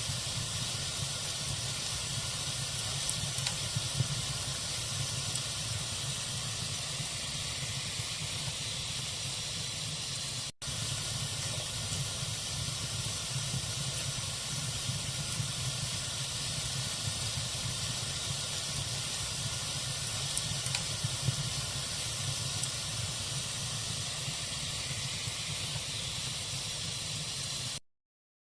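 Log fire burning in a fireplace: a steady hiss with a low rumble and a few faint crackles. The sound drops out for an instant about a third of the way through and cuts to silence just before the end.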